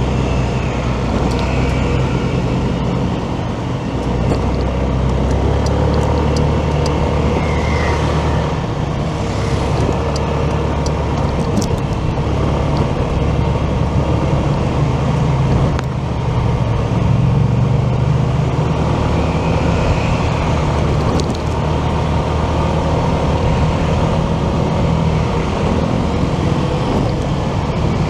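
Motorcycle engine running under way, a steady low hum whose pitch shifts up and down with speed, mixed with road and traffic noise.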